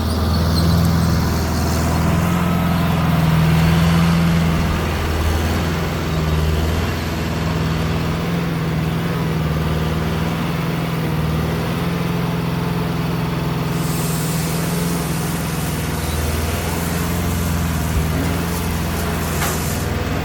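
A large engine running steadily, a low hum whose pitch wavers slightly.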